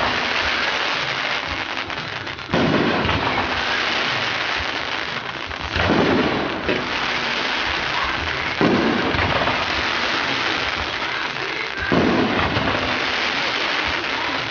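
Fireworks display: four loud bursts roughly three seconds apart, with a dense crackling hiss running on between them.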